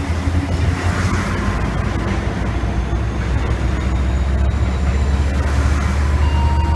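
Israel Railways passenger train rolling along the platform: a steady low drone under the rumble of the wheels, slowly growing louder as the coaches pass close by. A thin steady squeal comes in near the end.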